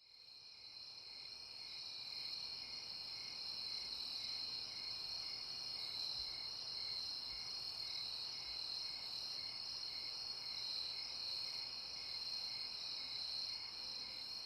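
Crickets chirping: a steady high trill with a slower pulsed chirp about twice a second, fading in over the first couple of seconds.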